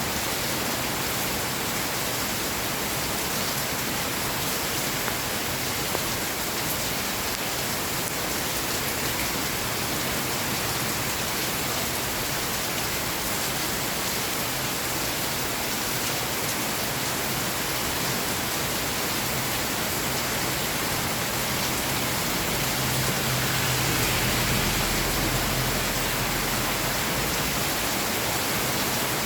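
Steady rain falling, an even hiss without a break. Near the end a low rumble of distant thunder swells for a few seconds and fades.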